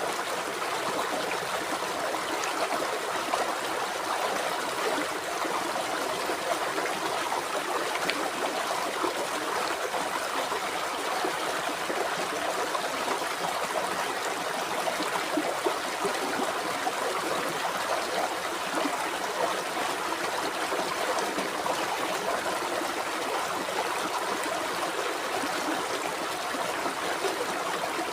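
River water flowing and burbling over rocks, a steady rushing with fine trickling and gurgling detail.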